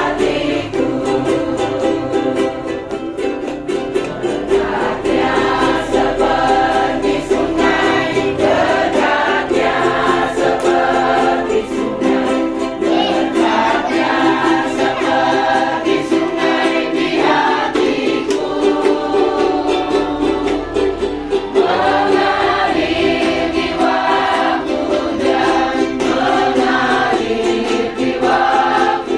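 Choir singing a worship song together, with an instrument keeping a steady strummed rhythm underneath.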